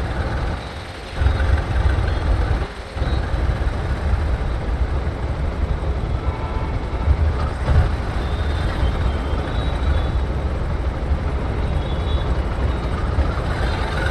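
Motorcycle ride road noise: a continuous rumble of wind, engine and traffic picked up by the rider's microphone, which drops off briefly twice in the first three seconds.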